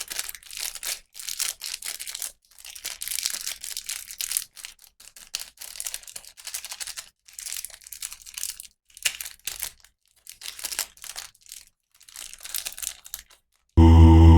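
Plastic toy packaging being handled and torn open, crinkling in irregular bursts with short pauses between them. Music starts abruptly near the end.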